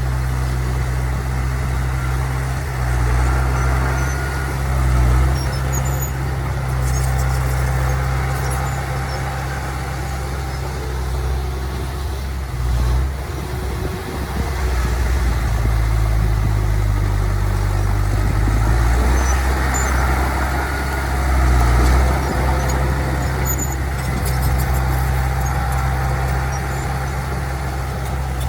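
Heavy diesel earthmoving machinery running under changing load, its deep engine note swelling and easing every few seconds.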